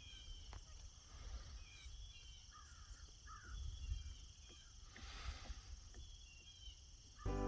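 Faint open-air ambience with a low wind rumble and a few faint bird calls, clustered about three seconds in; music starts right at the end.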